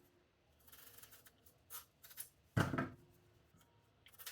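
Large kitchen knife cutting through raw potato: a few faint slicing scrapes, then one louder chop against the board about two and a half seconds in.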